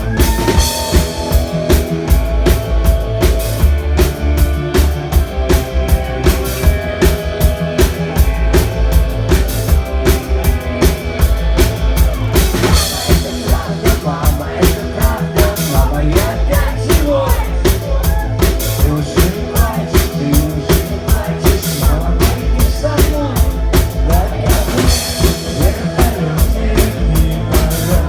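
Live rock band playing: a drum kit keeps a steady, fast beat of kick and snare under bass and sustained instrument lines.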